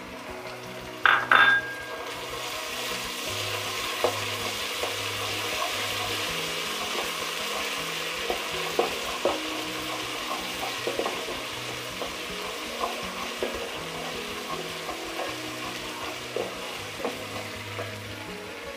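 Sliced onions and ginger-garlic paste sizzling steadily in hot oil in a metal pot, stirred with a wooden spatula that scrapes and knocks against the pot now and then. Two sharp metallic knocks about a second in.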